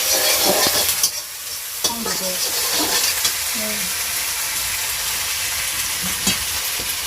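Spices and onions frying in hot oil in a pan, a steady sizzle, stirred with a spoon that knocks against the pan a few times.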